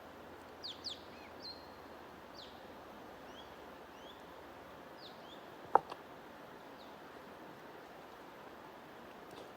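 Songbirds chirping in short rising and falling notes over a steady low hiss of noise. A single sharp click stands out about halfway through, followed by a fainter one.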